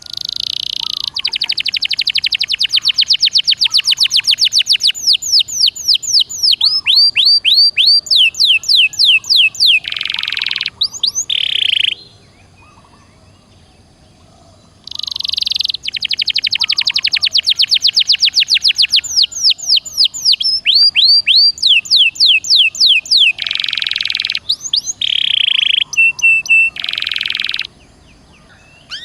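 Domestic canary singing long, loud song phrases made of rapid trills, fast falling whistled notes and dense buzzy rolls. There are two long bursts of about twelve seconds each, with a pause of about three seconds between them.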